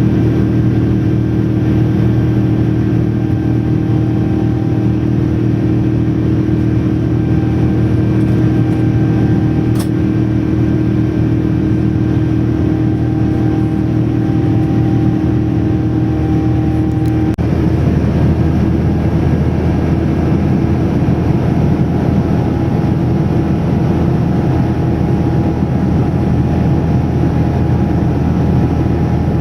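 Steady drone of a Boeing 787-9 heard from inside the cabin, engine and airflow noise with several low steady tones. The pitch pattern of the drone changes abruptly about 17 seconds in.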